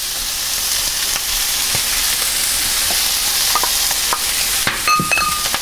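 Diced pork belly sizzling as it fries in a skillet, stirred with a wooden spoon, with a steady hiss and scattered light clicks and scrapes of the spoon against the pan.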